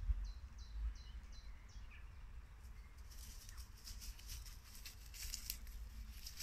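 A small songbird gives a quick run of five short, high repeated notes, followed by crackling and rustling of steps through dry leaves and undergrowth.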